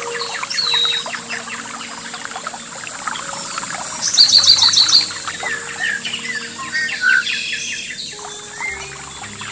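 Several songbirds chirping and calling. About four seconds in comes a fast trill of repeated high notes, the loudest sound, over a steady high hiss.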